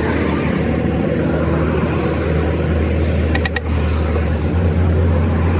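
A machine running steadily with a strong low hum, and a few quick sharp clicks or clinks about three and a half seconds in.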